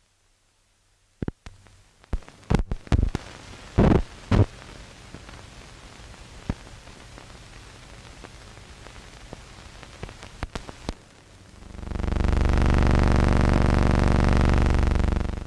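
Old film soundtrack noise: a steady hiss with scattered sharp clicks and pops. About twelve seconds in, a loud steady buzzing hum starts, holds for about three and a half seconds and then cuts off.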